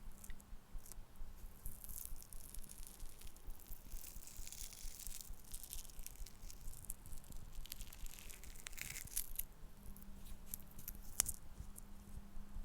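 Close-miked scratching and scraping on wooden objects in short, irregular strokes, with a single sharp tap near the end.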